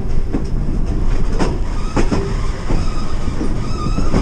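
Passenger train car rolling along the track: a steady low rumble with irregular knocks from the wheels and running gear, and faint high wheel squeal coming in near the end.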